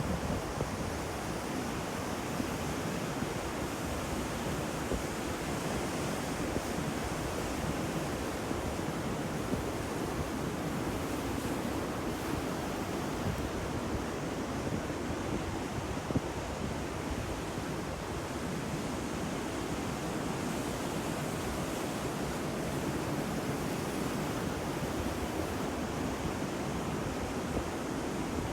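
Steady rushing of stormy wind and sea surf.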